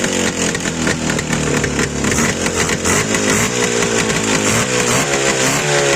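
Rebuilt motorcycle engine running and revved in repeated short throttle blips, its pitch rising and falling again and again. It picks up cleanly on the throttle, with no knocking from the piston or gearbox.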